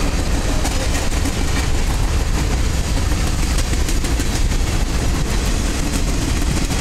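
Freight train cars (covered hoppers and a boxcar) rolling past close by: a steady rumble of steel wheels on the rails with faint clacking.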